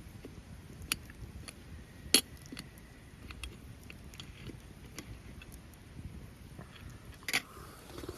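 Wood campfire crackling: scattered sharp pops and ticks, the loudest about two seconds in and another near the end, over a faint low hiss.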